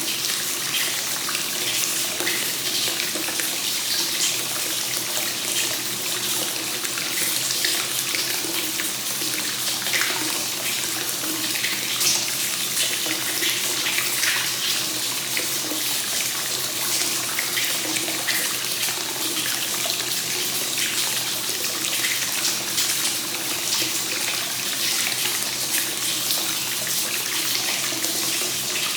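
Hot spring water pouring continuously into a bath: a steady splashing rush, dotted with many small splashes, that does not let up.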